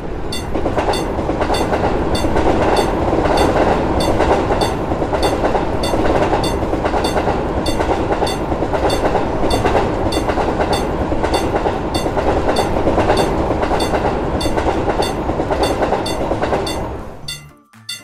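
Train passing over a level crossing: a loud, steady rumble of wheels on rails, while the crossing bell keeps ringing about twice a second. The train sound drops away near the end.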